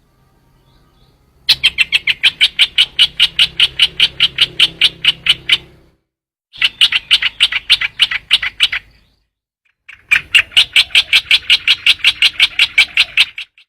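Recorded call of the trao trảo bird played as a decoy call: three bouts of rapid, evenly repeated sharp notes, about six a second. The first bout lasts about four seconds and the two after it are shorter.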